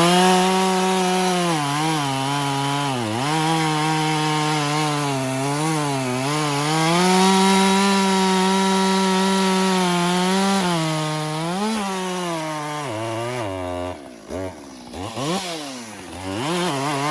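Husqvarna 550 XP 50cc two-stroke chainsaw at full throttle cutting a log, its pitch sagging and recovering under load. Near the end it drops to idle, is blipped a few times, then revs up again.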